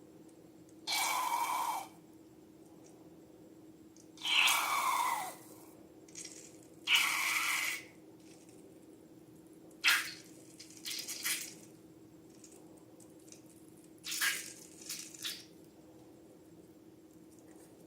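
Slime and balloons being handled. There are three noisy bursts of about a second each, then scattered sharp clicks and short crackles, over a steady low hum.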